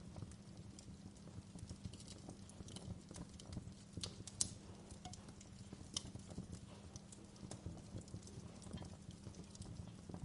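Wood fire crackling in a fireplace: irregular small pops and snaps over a low steady rumble, with a sharper pop about four seconds in and another about six seconds in.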